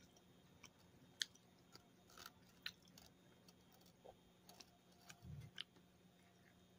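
Faint, scattered mouth clicks and smacks of a man chewing a crispy chicken sandwich, with a soft low thump a little after five seconds in.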